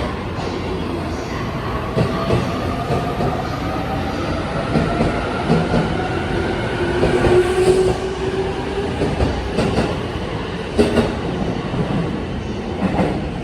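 Electric commuter or express train running into the platform, its traction motors whining in long tones that glide slowly as it brakes, with wheels clacking over rail joints.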